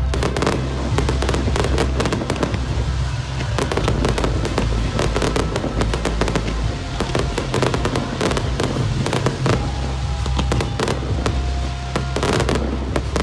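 An aerial fireworks display: shells bursting and crackling in a dense run of bangs, many a second.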